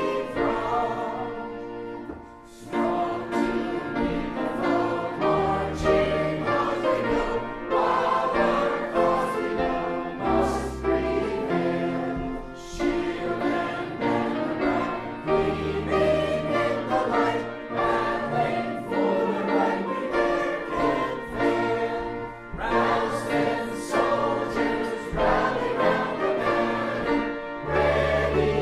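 A choir singing a hymn in parts with instrumental accompaniment, with a brief pause between phrases about two seconds in.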